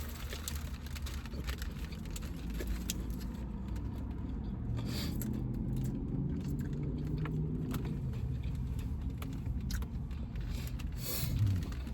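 Quiet eating sounds: chewing, and small clicks and rustles from handling the sandwiches, over a steady low hum. A low droning tone swells in the middle and fades again.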